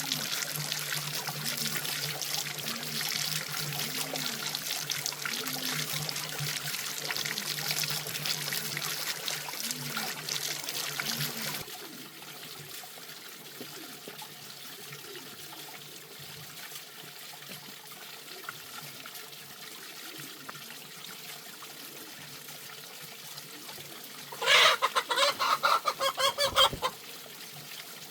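Water trickling for the first dozen seconds, stopping abruptly, then a rooster crowing once, loud and about two seconds long, near the end.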